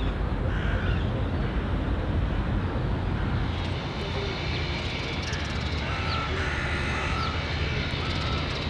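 A steady low engine rumble with an even background hiss, and faint distant voices.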